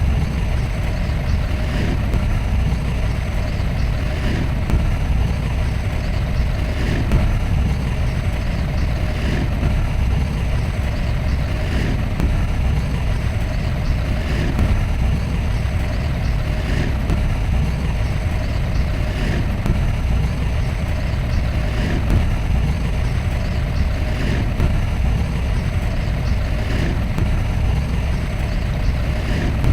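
Heavy earthmoving machinery's diesel engine running steadily with a deep rumble, with a faint regular knock about every two and a half seconds.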